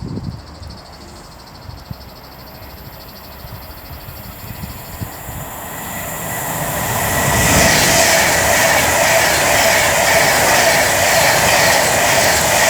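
Class 390 Pendolino electric train approaching and passing through the station at speed: wheel and rail noise with a steady hum that swells from about six seconds in and stays loud to the end.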